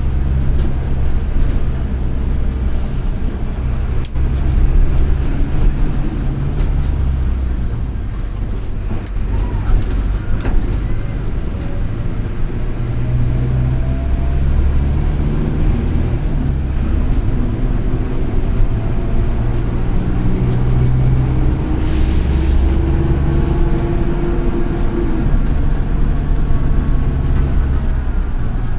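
Mercedes-Benz OF-1722M city bus's turbodiesel engine running under way, its pitch rising and falling with the throttle and gear changes, with the turbocharger whistling. A short air-brake hiss about 22 seconds in, and a few sharp clicks.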